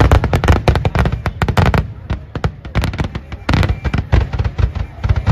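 Firework crackers going off in a fast, dense string of sharp bangs, several a second, thinning briefly in the middle before picking up again.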